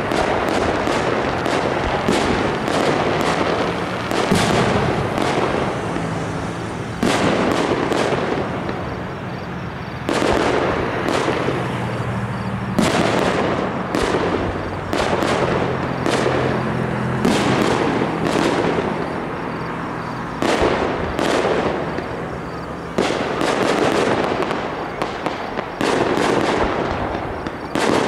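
Fireworks display: aerial shells bursting one after another over steady crackling, with only short lulls every few seconds.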